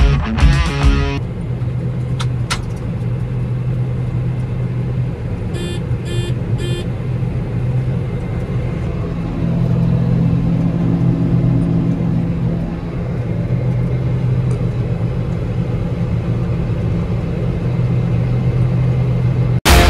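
Combine harvester running steadily while harvesting, its engine hum and machinery noise swelling a little about halfway through. Three short beeps sound about six seconds in.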